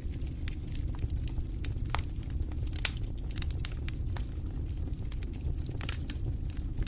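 Wood fire burning in a fireplace: steady low rumble of the flames with irregular sharp crackles and pops, the loudest pop about three seconds in.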